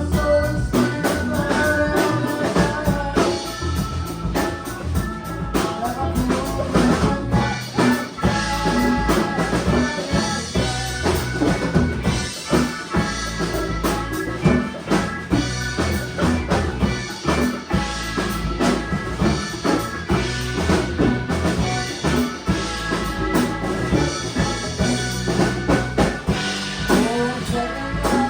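A band playing a song: a drum kit keeping a steady beat with bass drum and rimshots, under bass and sustained pitched instrument parts.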